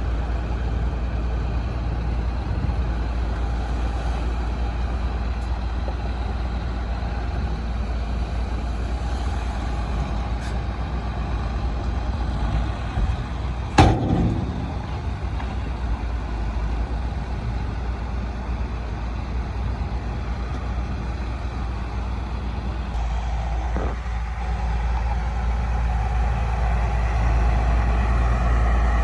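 Heavy diesel earthmoving machinery running steadily with a deep rumble. There is one sharp knock about halfway through, and the engine noise grows louder near the end.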